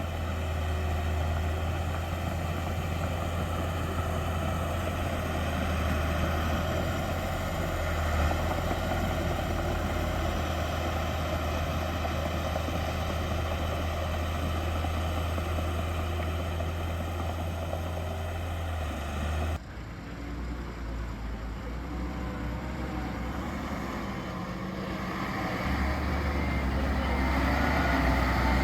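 Heavy diesel engine of earthmoving machinery running steadily with a deep hum. The sound changes abruptly about two-thirds of the way through, and the engine grows louder near the end.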